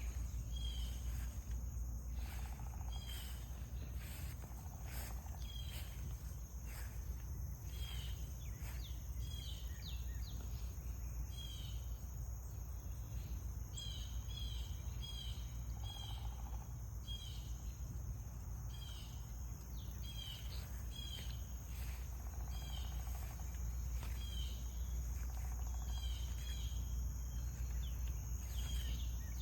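Outdoor garden ambience: small birds chirping in short calls repeated throughout, over a steady high-pitched insect drone and a constant low rumble.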